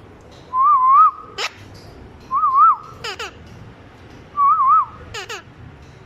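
A parrot whistling: a short wavering whistle repeated three times, each time followed by a sharp falling chirp.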